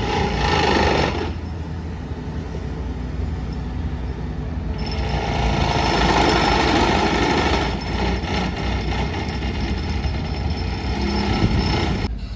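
Construction machinery working, with a brief loud burst at the start and a longer spell of loud noise from about five seconds in.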